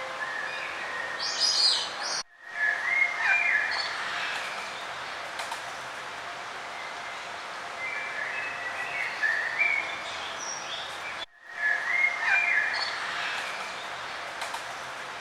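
Several birds chirping and warbling over a steady background hiss. There are two brief dropouts about nine seconds apart, and after each the same calls come round again, as in a looped recording.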